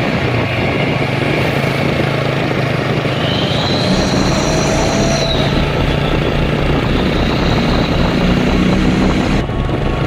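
Motor vehicle running steadily, a continuous engine and road noise with faint whining tones about halfway through.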